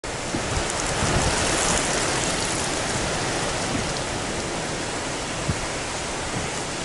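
Typhoon-driven surf breaking over a harbour breakwater: a dense, steady rush of water, with a few brief low thumps of wind buffeting the microphone.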